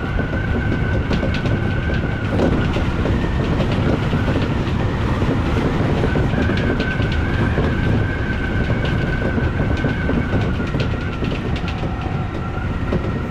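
Odakyu electric commuter train running along the line, heard from the front of the train: a steady rumble with a constant high-pitched tone and scattered sharp clicks of the wheels over the rails.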